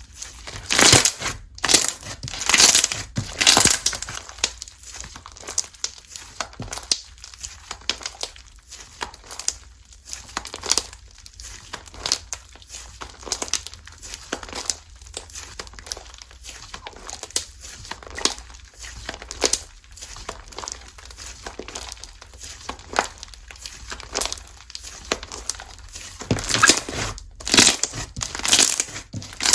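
Slime being squished and pressed by hand, giving a dense, irregular run of crinkling crackles and small pops, with louder clusters near the start and again near the end.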